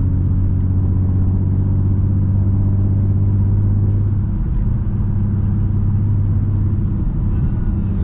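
Infiniti G37x's 3.7-litre V6 engine and exhaust giving a steady low drone while driving, with a brief dip and shift in pitch about halfway through.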